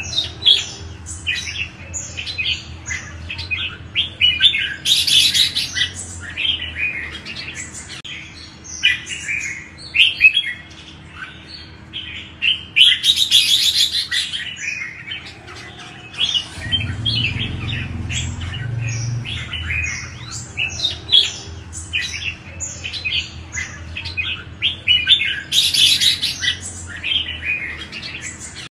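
Red-whiskered bulbuls singing: a steady stream of short, chirpy whistled phrases, rising three times into denser, higher bursts of chirping. A faint steady low hum runs underneath.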